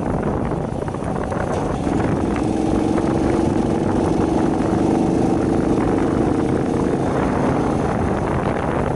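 A small 50cc Shineray motorcycle being ridden, its engine holding a steady note, under heavy wind noise buffeting the microphone. The engine note stands out more clearly from about two seconds in.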